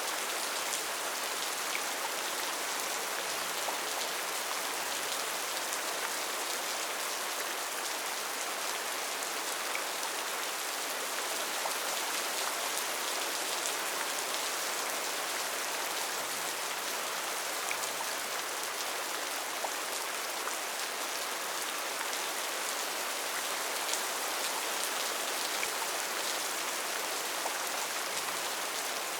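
Steady heavy rain falling on forest foliage, an even hiss with many small drop ticks and no thunder.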